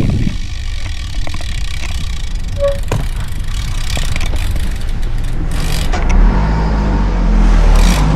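Wind rumble on the microphone of a moving bicycle, with traffic around. From about six seconds in, a motor vehicle's engine close by grows louder.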